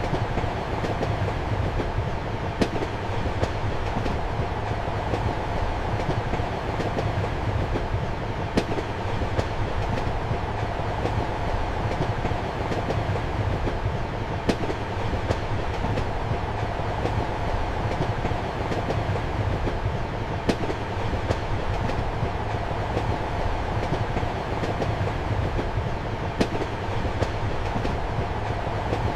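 Passenger train running, heard from inside a compartment: a steady rumble and hum with the click of wheels over rail joints, a sharper clack about every six seconds.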